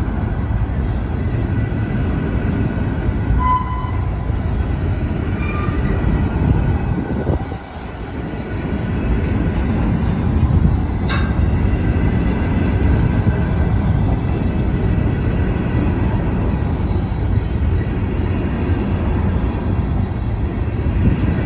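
Covered hopper cars of a freight train rolling past close by: a loud, steady low rumble of steel wheels on the rail. A few short high tones come through in the first few seconds, and there is a single sharp knock about eleven seconds in.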